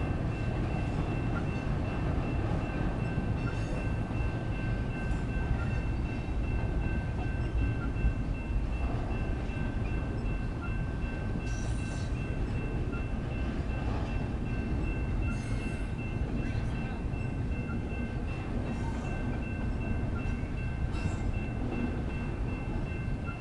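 BNSF intermodal freight train rolling past a grade crossing with a steady low rumble of wheels on rail. A continuous high ringing tone from the crossing's electronic bells sounds over it, and a few brief hisses come through near the middle.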